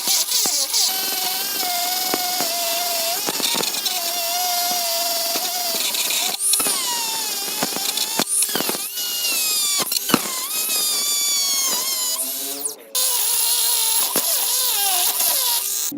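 Small electric power tool whining at high speed, its pitch wavering and dipping as it bears on the work. It cuts out briefly about three-quarters of the way through.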